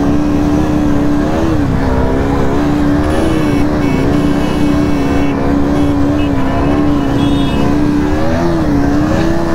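KTM RC 125's single-cylinder engine held at high revs under steady throttle during a wheelie, the pitch nearly level with three brief dips as the throttle is eased and reopened, over wind buffeting the microphone.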